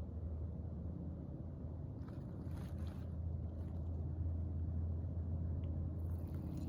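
Steady low rumble, with a few faint rustles or clicks about two to three and a half seconds in.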